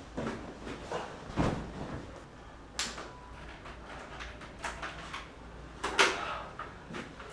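A few scattered knocks and clunks, like a door or cupboard being opened and shut, the loudest about six seconds in.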